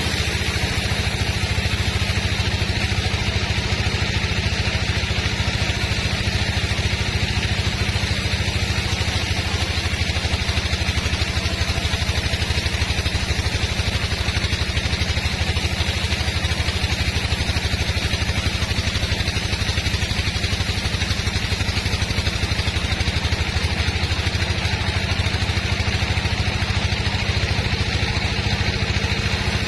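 Sawmill machinery running with a steady engine-like drone that does not change.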